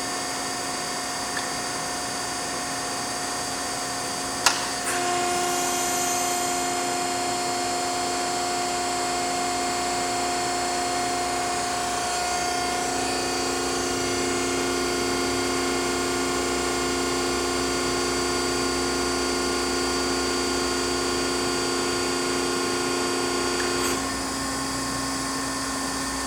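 Baykal CNC hydraulic press brake running, its hydraulic pump humming steadily. A sharp clunk about four seconds in, then the machine runs louder with a higher whine added until near the end, when it drops back to the steady hum.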